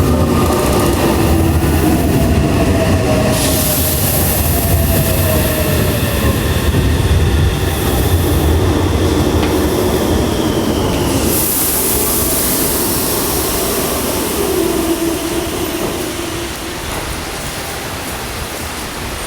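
Meitetsu 2000 series μSky electric train running past on the track: wheel and rail noise with motor whine whose pitch slides downward. The sound eases off after about 16 seconds.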